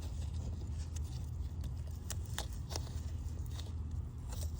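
A few light clicks and taps as the coolant temperature sensor's plastic wiring connector is handled, about two to four seconds in, over a steady low background rumble.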